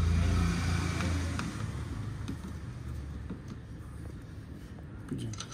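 A motor vehicle's engine hum, strongest at first and fading away after about three seconds, with a few faint light clicks.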